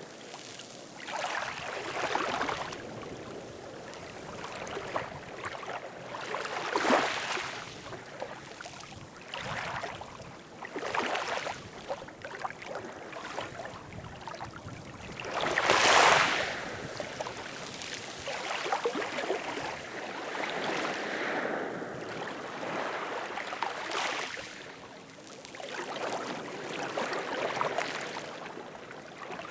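Ocean waves washing in, one swell of surf after another every few seconds, the loudest about halfway through.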